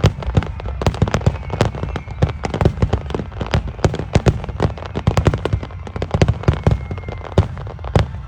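Fireworks display: aerial shells bursting in a dense, rapid barrage, several sharp bangs a second over a steady low rumble.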